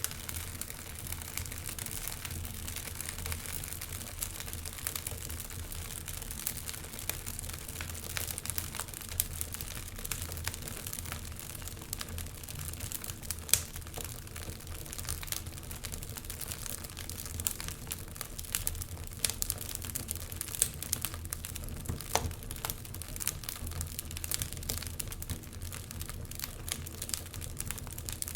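Wood fire crackling and popping in a fireplace: irregular small cracks, with one sharper pop about halfway through, over a steady low rumble.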